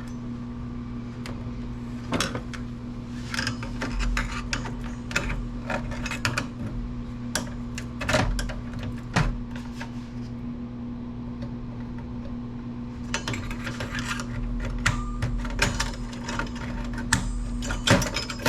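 Scattered small clicks and taps of a screwdriver and metal parts as screws are worked loose to free a computer's heat sink, over a steady low hum.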